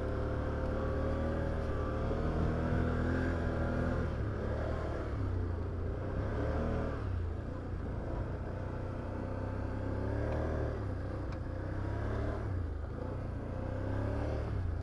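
Can-Am Outlander 850 XT ATV's V-twin engine running as it rides along a trail, the throttle rising and falling several times.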